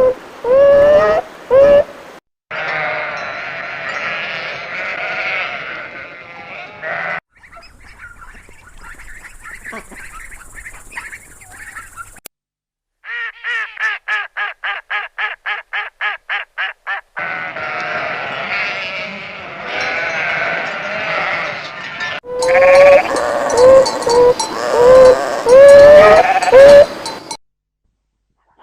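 Sheep and goats bleating in a run of short cut-together clips: single repeated bleats, a whole flock calling at once, and one quavering call that pulses about four times a second.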